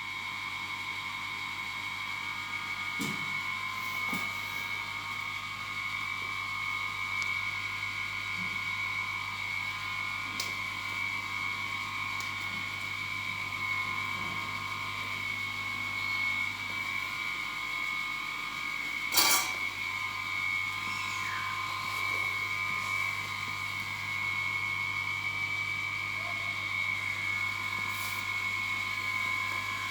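Toyota 1HZ inline-six diesel engine running steadily, with a steady high whine over its hum. One sharp click comes about 19 seconds in.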